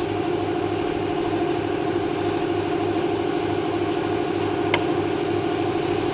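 A machine running steadily in the background, a hum with a regular low pulse of about two beats a second. There is one sharp click a little before the end.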